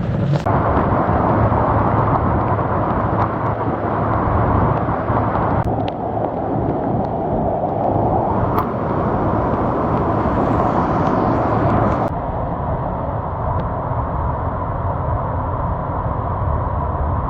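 Steady rushing noise of flash floodwater pouring down a wadi. Its character changes abruptly about six seconds in and again about twelve seconds in.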